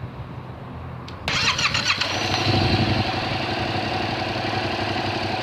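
Motorcycle engine being started: it cranks briefly about a second in, catches at about two seconds, then settles into a steady idle.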